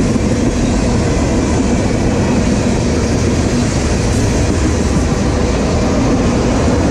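Freight cars of a passing train rolling by at speed: a steady, loud rumble of steel wheels on the rails.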